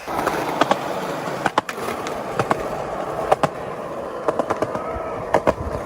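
Skateboard wheels rolling over pavement with a steady rumble, broken by a string of sharp clacks and pops from the board and wheels.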